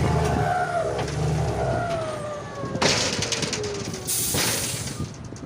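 Heavy truck engine note dying away, with a falling whine, then two sharp hisses of air about three and four and a half seconds in, like air brakes being released.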